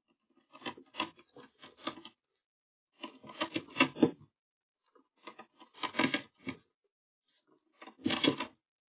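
A marten gnawing at bird fat balls: crackly crunching and tearing in four bursts, each about a second long, with short pauses between.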